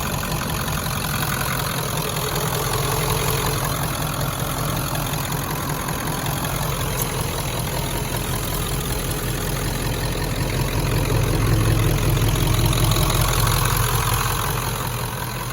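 1996 Ford F-350's 7.3L Power Stroke turbo-diesel V8 idling steadily, growing somewhat louder about eleven seconds in.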